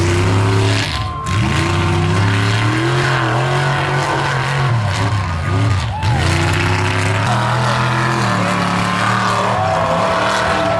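Mud truck engine revving hard under load, its pitch climbing and falling with the throttle. It drops away briefly about a second in and again about six seconds in, then builds back up.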